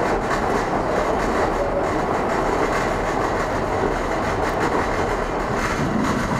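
Docklands Light Railway train running along the track, heard from inside the carriage: a steady rumble of wheels and running gear.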